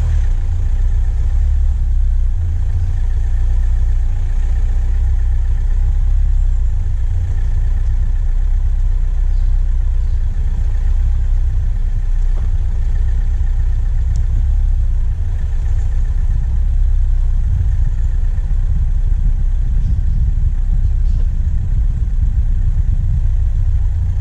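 Diesel engine running steadily, picked up close by a camera on the vehicle's bonnet, with a steady deep rumble and a faint hum above it.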